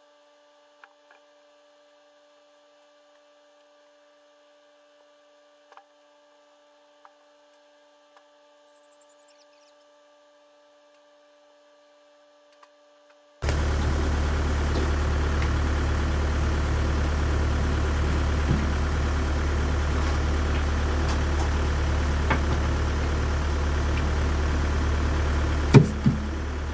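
Near silence with a few faint clicks, then, about halfway through, a Wood-Mizer band sawmill's engine comes in abruptly, running steadily with a low hum, with a couple of sharp knocks near the end.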